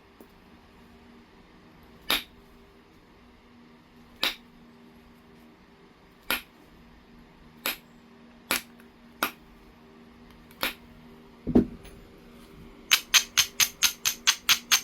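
Knapping tool striking a piece of heat-treated Oregon jasper: sharp single clicks spaced one to two seconds apart as flakes come off, a dull thump about eleven seconds in, then a quick run of light clicks at about five a second.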